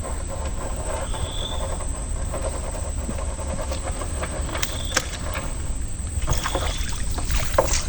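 Steady outdoor rumble and hiss, with a short high-pitched call repeating about every two seconds and a few sharp knocks near the middle and the end.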